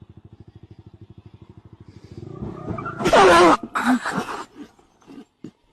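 A fast, even low pulsing, about ten beats a second, gives way to a loud, harsh noisy burst about three seconds in with a wavering shout through it, typical of a vehicle crash. A second, shorter burst and a few knocks follow.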